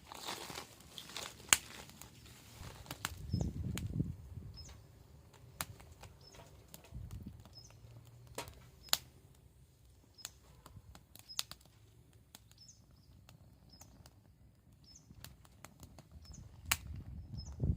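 Wood fire crackling, with scattered sharp pops and a few low rushing swells.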